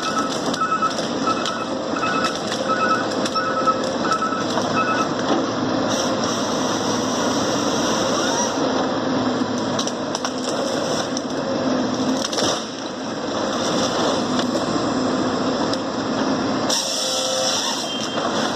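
A forestry harvester processing timber: steady machine noise with wood cracking and splintering as the stems are worked. A double electronic beep repeats quickly through the first five seconds or so.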